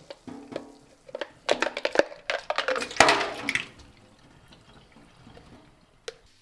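Water splashing at a sink with irregular clinks and knocks, busiest in the middle and then dying away, with one sharp click near the end.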